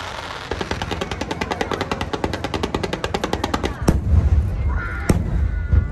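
Firecrackers going off in a rapid run of sharp pops, about a dozen a second, for about three seconds, followed by two louder single bangs.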